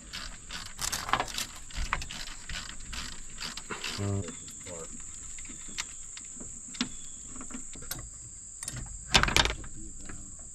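Crickets chirping steadily, overlaid by scattered metallic clicks and clinks of hand tools on engine bolts, with a louder cluster of knocks around nine seconds in and a brief voice about four seconds in.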